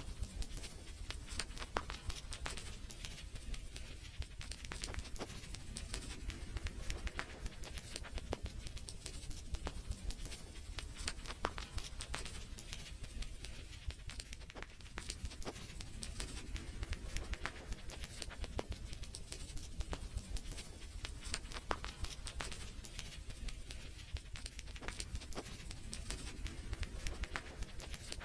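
Wood fire in a fireplace crackling: a continuous, irregular stream of small pops and snaps over a low, steady rumble.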